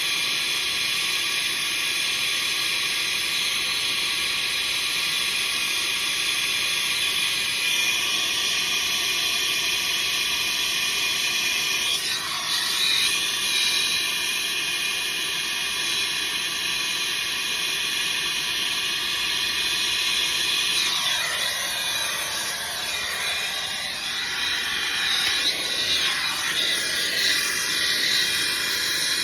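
Brazing torch flame hissing steadily while a filter drier is brazed into a refrigerant line, its sound shifting a little about 12 seconds in and again near the end.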